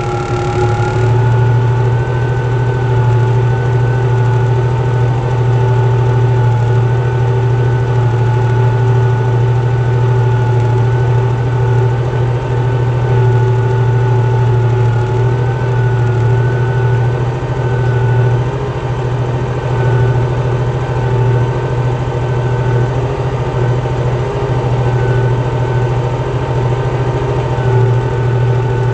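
Tractor diesel engine running at a steady speed: a strong low hum with a steady higher whine over it.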